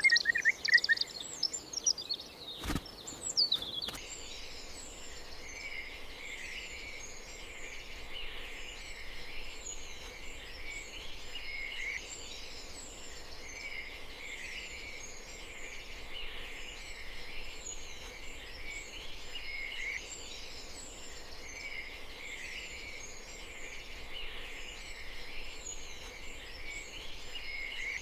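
Birds chirping, a few louder calls at first, with a single click about three seconds in. From about four seconds in, a dense, steady chorus of many birds chirping over a faint hiss.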